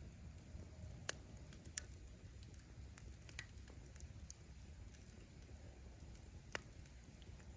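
Wood bonfire crackling, with a steady low rumble and scattered small snaps of burning firewood. Three sharper pops stand out, the loudest just under two seconds in.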